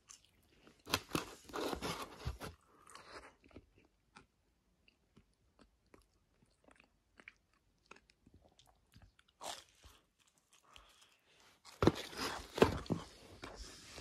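Crunchy bites and chewing of a battered, deep-fried pizza: loud crunching near the start and again near the end, with quieter chewing between.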